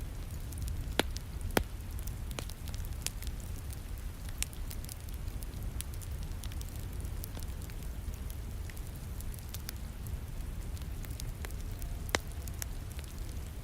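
Wood fire crackling in a fireplace, with irregular sharp pops, the loudest about a second and a half in and near the end. A steady low rumble and hiss of rain runs underneath.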